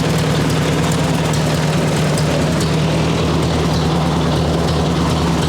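1958 Ford 851 tractor's four-cylinder gasoline engine running steadily at an even, unchanging speed.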